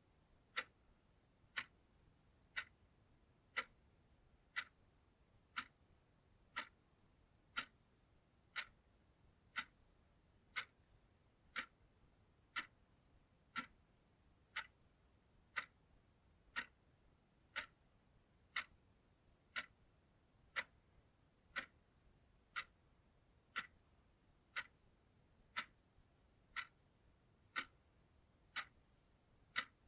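Clock ticking steadily, one short, sharp tick a second.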